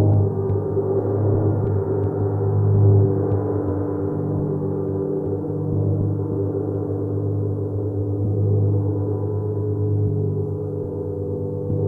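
Gong played in a long, sustained wash of many overlapping low tones, swelling and easing gently without distinct strikes.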